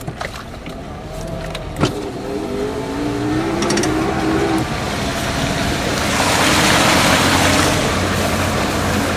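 A vehicle's engine pulling and rising in pitch, then a swelling rush of water spray for the last few seconds as it ploughs through deep floodwater on a street.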